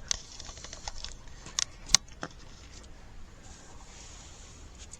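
Scattered sharp clicks and knocks of equipment being handled, bunched in the first half, over a faint steady hiss.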